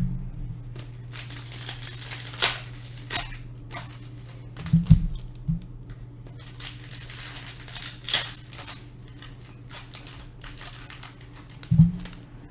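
Trading cards being handled: repeated short rustling and sliding swishes of cardboard cards, with a few low thumps about five seconds in and near the end, over a steady low hum.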